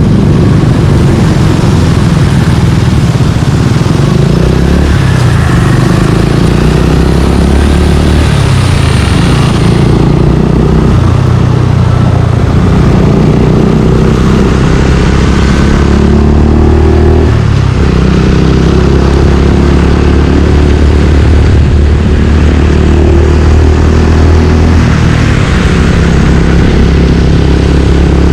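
Suzuki Gixxer 155's single-cylinder four-stroke engine running through an aftermarket exhaust while ridden, its pitch changing with the throttle a few times.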